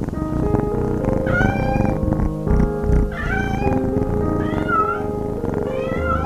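A cat meowing four times, with short rising-and-falling calls spaced about a second and a half apart, over background music.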